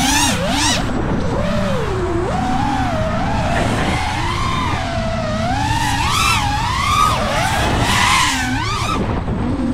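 iFlight Nazgul5 5-inch FPV quadcopter flying, its brushless motors whining with a pitch that swoops up and down constantly as the throttle is worked.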